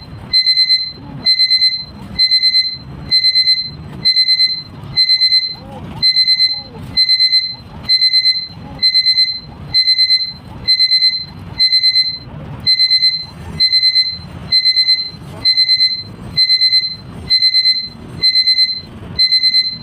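Electronic alarm beeping in quick clusters of about four high beeps, the clusters repeating about once a second without a break.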